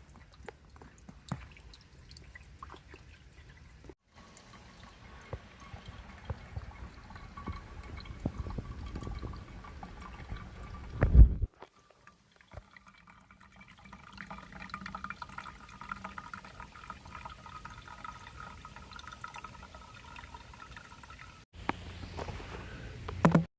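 Water trickling and dripping, in several short takes, with a loud knock a little past the middle.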